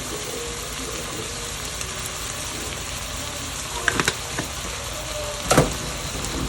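Onion, celery and peas frying in oil in a pot with a steady sizzle, broken by a few sharp clicks, like a utensil or shaker against the pot, about four seconds in and again near five and a half seconds.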